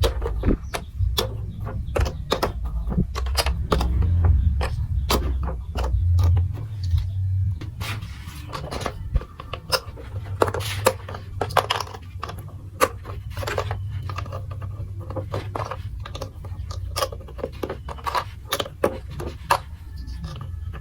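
Plastic marble run building blocks clicking and clattering: many small, sharp, irregular clicks over a low rumble.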